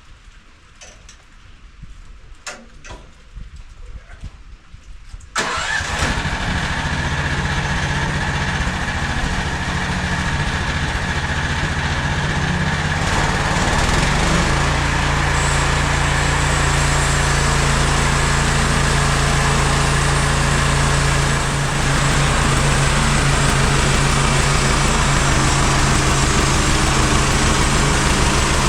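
Engine of a MechMaxx SM32 portable bandsaw sawmill starting about five seconds in, after a few clicks, then running steadily. It gets a little louder about eight seconds later, as if throttled up.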